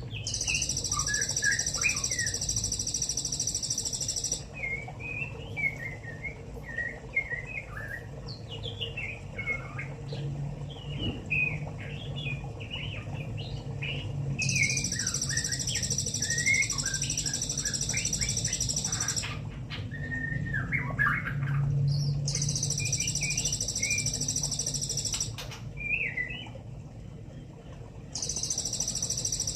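A juvenile white-rumped shama, about six weeks old, twittering a rambling practice song of short, quick, scattered notes: the early subsong of a young bird learning to sing. A loud, steady, high-pitched buzz repeatedly starts and cuts off in stretches of a few seconds, alongside a low hum.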